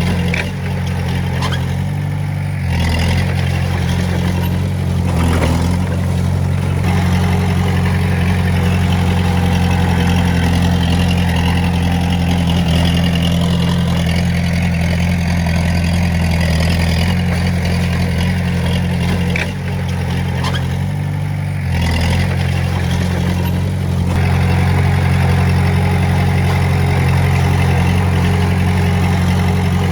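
Heavy-equipment diesel engine running steadily, its note dipping and changing briefly a few times, near the start and again past the middle.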